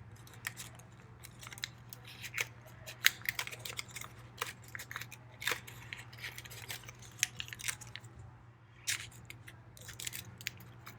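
Square origami paper being folded and creased by hand, giving irregular crisp crinkles and rustles.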